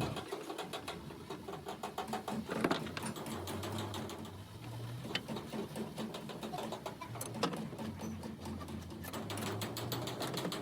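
A machine running with a fast, even mechanical rattle, with a few sharp clicks, the loudest about three seconds in.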